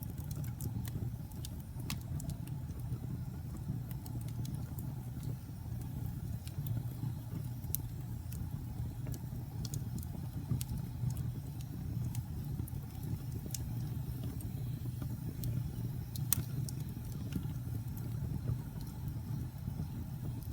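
Wood fire in a fireplace crackling: irregular sharp pops and snaps, a few louder ones such as about sixteen seconds in, over a steady low rumble.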